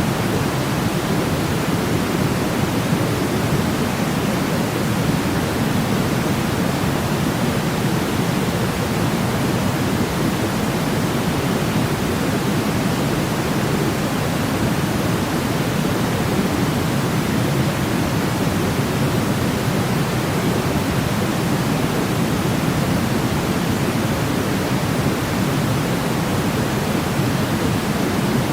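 Steady, unbroken sleep-aid noise, deep and rushing rather than hissy, with no change in level or pattern.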